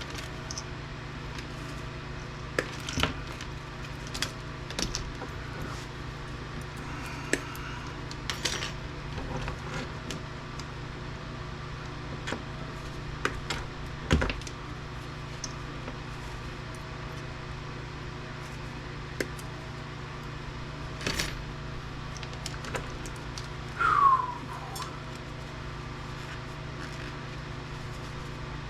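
Scattered clicks and metal clinks of hand tools and parts being handled while an APC battery backup unit is taken apart for scrap, over a steady low hum. About 24 seconds in, a brief falling squeal is the loudest sound.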